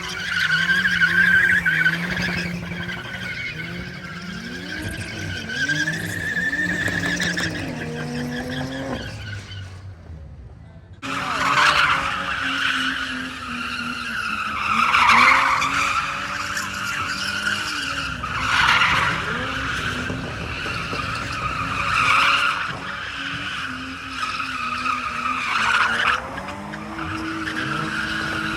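A car drifting: tyres squealing while the engine revs rise and fall. The sound cuts off abruptly about ten seconds in, then returns with the squeal surging every three to four seconds.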